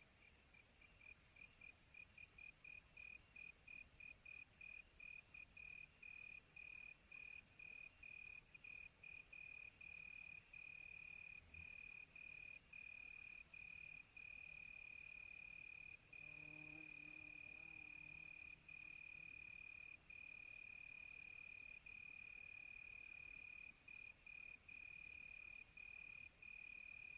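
Crickets trilling at one steady high pitch. The trill is chopped into quick pulses at first, then runs in longer stretches with brief gaps. A faint, low drawn-out call sounds for a few seconds about two-thirds of the way in.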